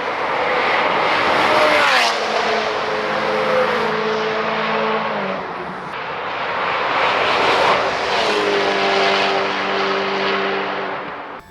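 V8 engine of a BMW 1M V8 running on the move under heavy wind and road noise. Its pitch drops about two seconds in and again around five seconds, then holds a steady note.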